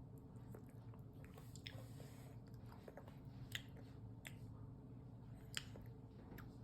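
A baby chewing and smacking its lips while eating, faint, with a few sharp little clicks.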